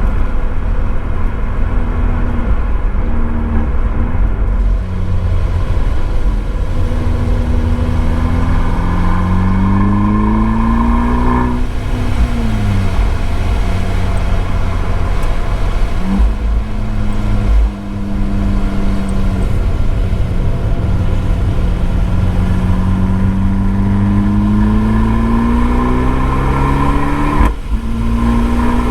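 Abarth 595 esseesse's turbocharged 1.4-litre four-cylinder heard through its Akrapovič exhaust from a microphone in the boot, pulling hard on track. The engine note climbs steadily, falls away about twelve seconds in, holds fairly level, then climbs again and breaks off briefly near the end.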